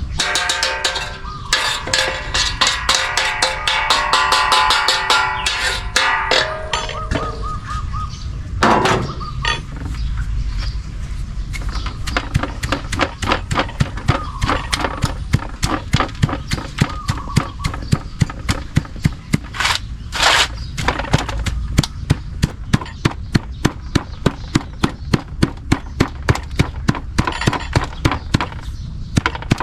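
Rhythmic knocking, about two to three sharp strokes a second, kept up steadily through most of the stretch, typical of dried turmeric being pounded or chopped by hand. A pitched sound of several steady tones is heard for the first seven seconds or so.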